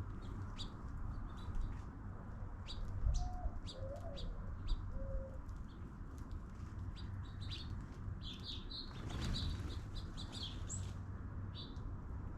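Small songbirds chirping repeatedly, with many short, high notes, and three short low calls a few seconds in. A brief rush of noise comes near the middle.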